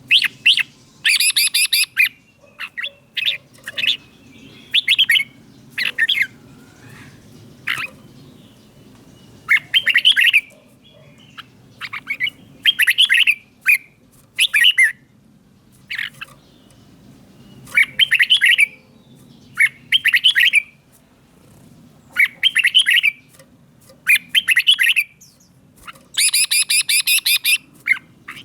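Red-whiskered bulbul singing in the southern Thai master-song style: short, bright warbled phrases repeated every second or two. About a second in and again near the end come faster runs of rapid notes.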